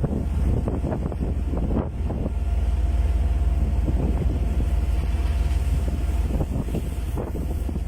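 Strong wind buffeting the microphone: a constant low rumble with irregular gusty flutters, and a faint steady hum underneath.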